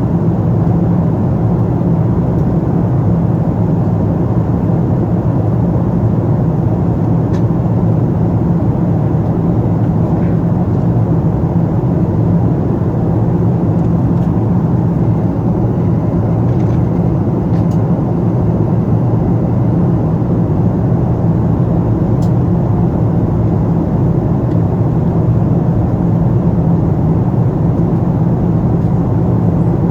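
Steady drone of a Boeing 777-200 in flight, its engines and airflow heard from inside the passenger cabin, even in level and deepest in the low range.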